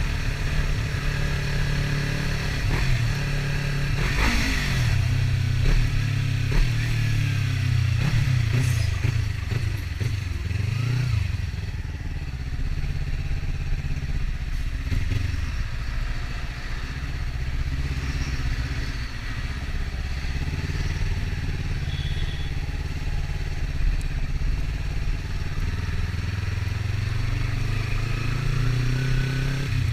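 Kawasaki Ninja 300 parallel-twin engine running under way, its pitch rising and falling as the bike speeds up and slows. There is a brief loud clatter about four seconds in, and the revs climb again near the end.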